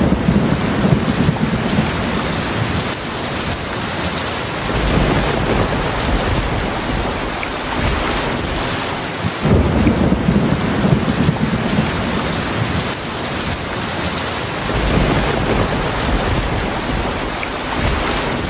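Steady heavy rain with low rolling thunder that swells up and fades away four times, each rumble lasting a couple of seconds.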